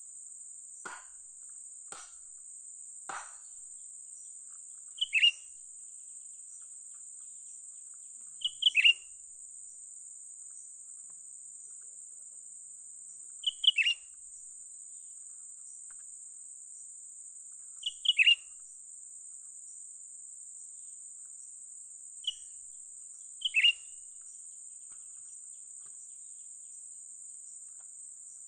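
Cucak ranting bird calls: short, sharp, falling chirps, mostly in quick pairs, repeated six times at intervals of about four to five seconds. A steady high-pitched insect drone runs underneath, and there are a few faint clicks near the start.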